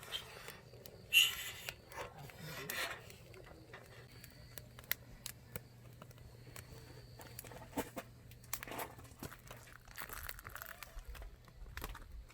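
Intermittent rustling and crinkling with scattered light clicks, the loudest rustle about a second in, over a faint steady low hum.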